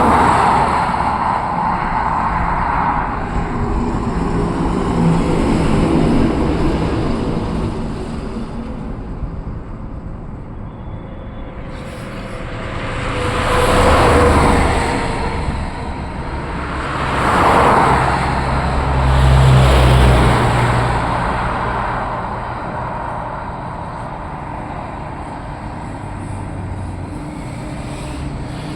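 Road vehicles driving past with continuous traffic noise, and two loud pass-bys about halfway through that swell and fade.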